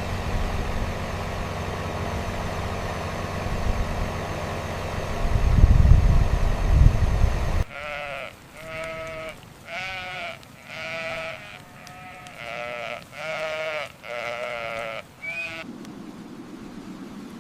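A low steady hum that swells louder about six seconds in and cuts off abruptly, followed by a sheep bleating about seven times in quick succession.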